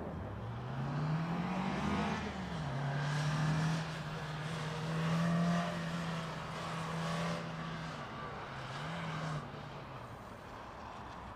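Nissan Bluebird 510's four-cylinder engine accelerating hard: the pitch rises for about two seconds, drops at a gear change, then holds steady under load. Near the end the revs rise and fall briefly before the engine eases off and the sound fades.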